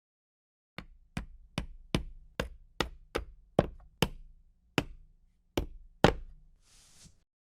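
A quick series of knocks, about two and a half a second, slowing to three more spaced knocks, followed by a short hiss near the end.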